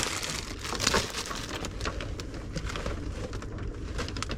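Rummaging through a pile of small things: irregular rustling, shuffling and light clicks as items are moved about in the search for a pack of baby wipes.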